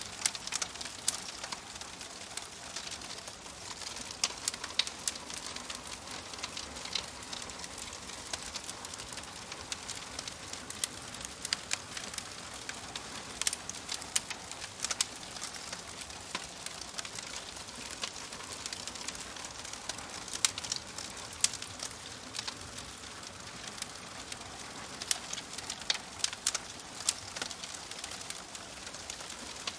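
Wood fire crackling: a steady soft hiss with irregular sharp pops and snaps, some in quick clusters.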